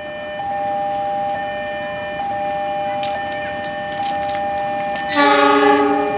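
Train horn sounding one loud blast of several notes together, starting about five seconds in, over a steady high electronic tone.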